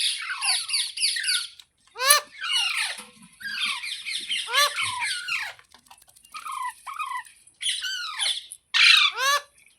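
Green ringneck parrot giving repeated harsh squawking calls, each sliding down in pitch, in quick runs of several calls with brief pauses between them.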